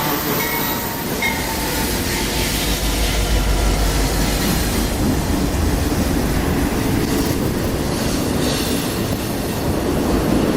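BNSF freight train rolling past at close range, steel wheels running on the rails in a steady, loud rumble.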